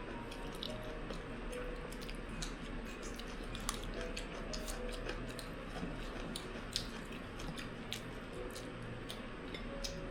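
Eating at the table: chewing, with many small sharp clicks of utensils on dishes, over a low steady hum.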